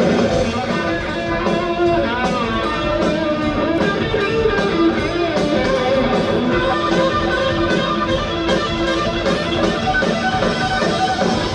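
Live rock band playing an instrumental break: a guitar carries the melody over bass and a steady drum beat, with no singing.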